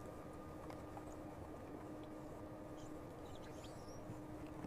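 Faint steady low hum with a few faint, short high-pitched squeaks about three and a half seconds in.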